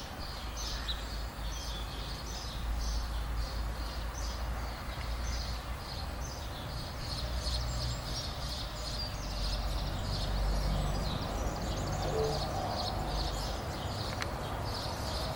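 Small birds singing and chirping continuously in quick, high-pitched notes, over a steady low rumble.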